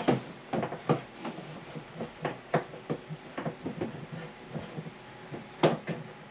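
Irregular knocks, taps and rubbing as water hoses are handled and fed into place around the tank area, with a louder cluster of sharp knocks near the end.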